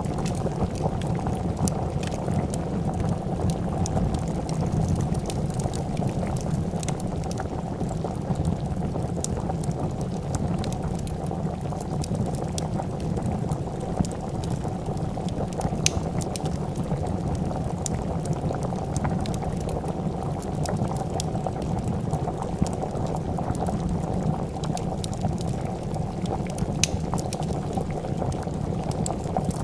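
A pot of soup at a steady rolling boil, bubbling evenly, with sharp pops and crackles from a wood fire scattered throughout.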